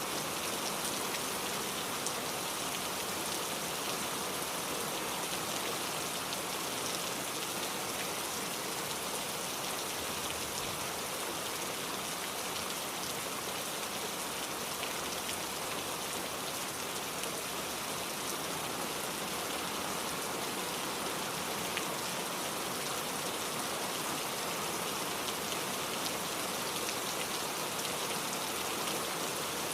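Heavy rain falling steadily on surfaces, an even, unbroken wash of noise.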